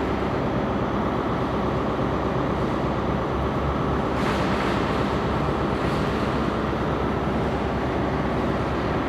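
Diesel train engines running steadily, a low drone with a short hiss about four seconds in.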